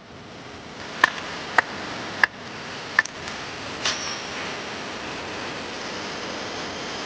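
A steady rushing noise with four sharp knocks in the first three seconds, about half a second to three-quarters of a second apart, and a softer knock about a second later.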